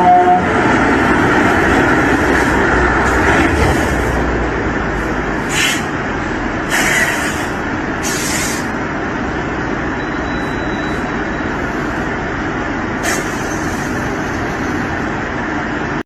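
Steady road and engine noise of a moving vehicle in traffic, with a pitched tone cutting off about half a second in and several short hisses partway through.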